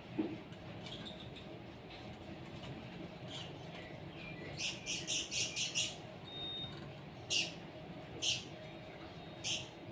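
Small birds chirping: a quick run of about six sharp, high chirps about five seconds in, then three single chirps spaced about a second apart, over a steady low background hum.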